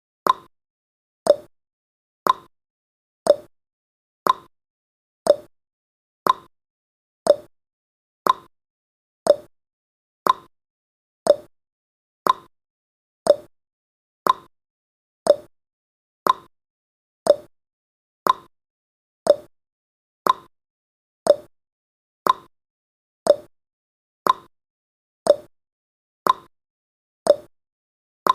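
Countdown timer's ticking sound effect: a short, sharp click once every second, each dying away quickly.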